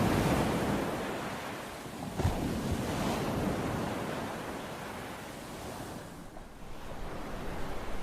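Ocean surf washing in and out, with a wave surging about two seconds in and slowly ebbing away.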